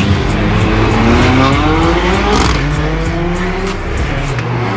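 Car engine revving hard, its pitch climbing steadily for about two and a half seconds and then holding steadier.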